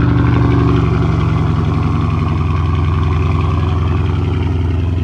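Mercedes-Benz S550's twin-turbo V8 idling just after being started, a steady low engine note that eases off a little after the first second.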